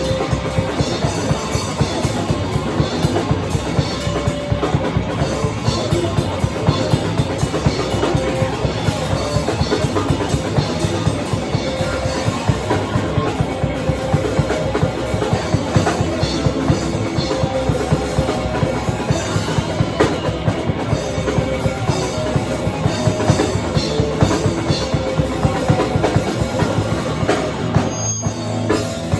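Live rock band playing loudly, with fast, dense drumming and bass drum under guitar and bass. There is a momentary break just before the end.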